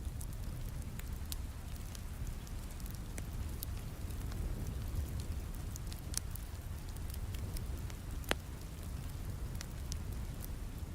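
Steady rain with a low rush, over a wood fire crackling in a fireplace, its scattered sharp pops the loudest of them a little past two-thirds of the way through.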